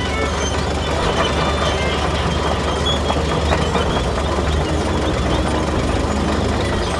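Small engine running steadily with a knocking chatter, the sound of the mini tractor driving.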